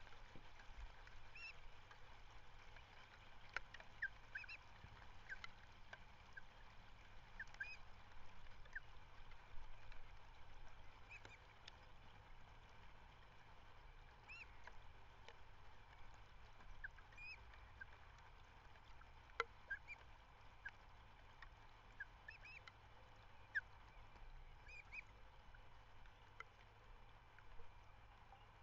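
Faint bird calls: short chirps come every second or so, over a steady low background hiss, with a few faint clicks.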